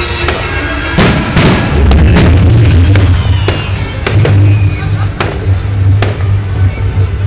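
Fireworks going off in a series of sharp bangs, the biggest about a second in, over loud music with a heavy bass.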